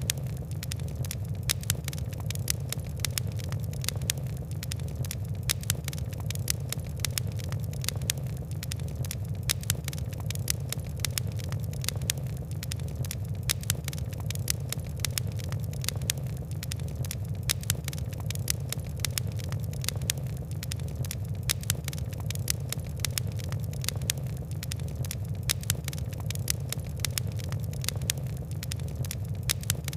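Fire crackling: dense, irregular quick ticks and pops over a steady low rumble.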